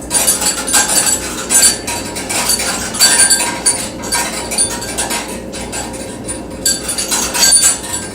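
Dishes and cutlery clattering and clinking, many small knocks in quick succession.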